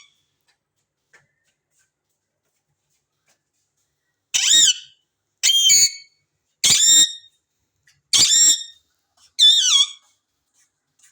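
A parrot calling: five loud, short screeches about a second apart, starting about four seconds in, each with a wavering, dipping pitch.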